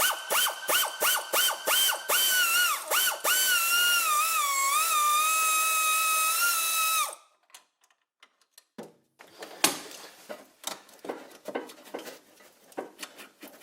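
Power tool motor whining in short trigger bursts, then running steadily for about four seconds with a wavering pitch before it cuts off. Light metal clinks follow.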